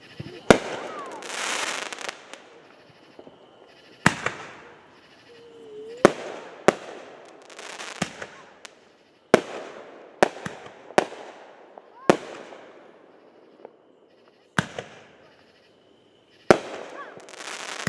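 Fireworks going off: about a dozen sharp bangs at uneven intervals, some followed by a crackling hiss lasting a second or two.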